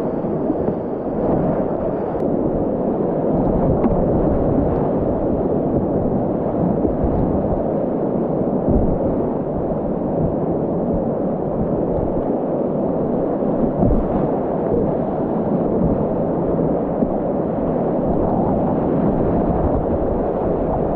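Loud, steady rush of river whitewater rapids, heard from a kayak, with scattered low thumps of water.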